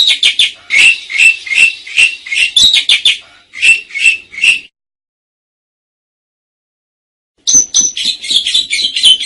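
Pied starling singing: a run of rapid, chattering whistled notes for about four and a half seconds, a pause of about three seconds, then another burst of song near the end.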